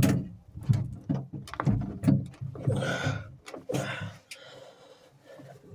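Irregular knocks and scraping of hands working a rubber exhaust hose and clamp onto a marine diesel's wet exhaust fitting, with short grunts of effort in between.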